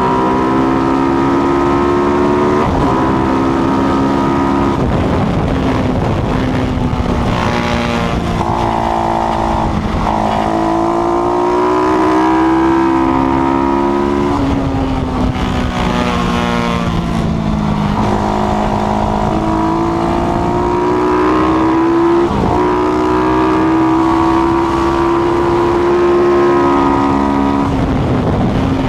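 KTM 690-based single-cylinder Supermono racing motorcycle engine at racing speed, its pitch climbing and dropping through the gears with a break at each gear change every few seconds.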